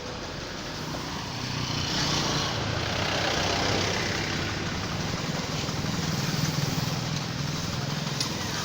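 Motor vehicle engine running with a steady hum under a broad hiss, growing louder about two seconds in.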